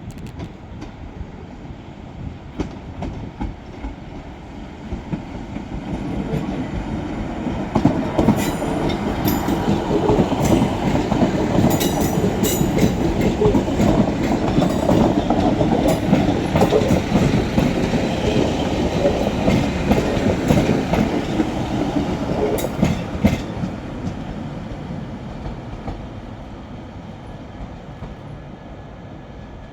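A train passing along the track, its rumble building for several seconds, holding loud and then fading away. Clatter of the wheels over rail joints and points, with sharp high squeaks through the loudest part.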